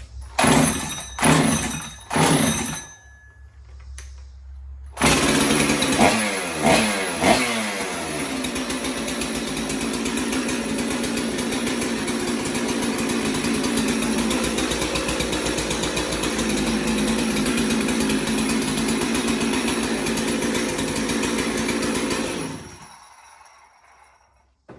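Two-stroke chainsaw engine: three short bursts, then about five seconds in it catches and runs, revved a few times, then runs steadily until it dies away near the end.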